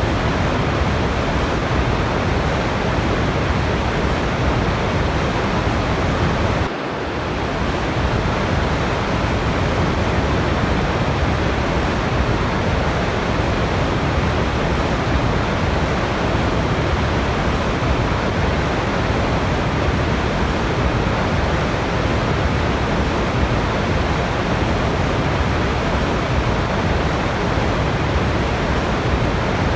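Steady rushing roar of a waterfall, even and unchanging, with one brief dip in level about seven seconds in.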